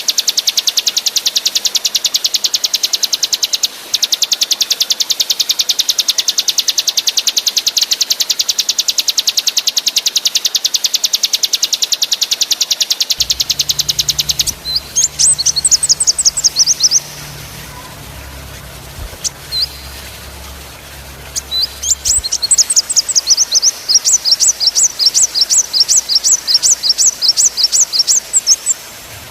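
Recorded songbird song: a long, very rapid buzzing trill for about fourteen seconds. It breaks off into runs of sharp, down-slurred chirps repeated about three a second, with a pause between runs.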